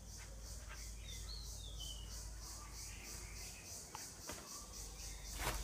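Outdoor ambience: a bird gives a short wavering call about a second in, over a steady, pulsing high insect drone. A sharp knock comes near the end.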